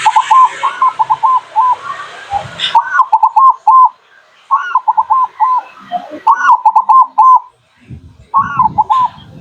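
Zebra dove (perkutut) singing its rapid staccato cooing song: about five phrases of quick repeated coos, each opening on a higher note, with short pauses between them. A hiss under the first phrases cuts off suddenly about three seconds in.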